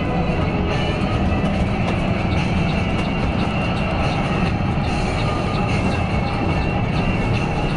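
Mercedes-Benz OC 500 RF 2542 coach running at steady speed: a continuous engine and road drone with a low hum and light rattling ticks.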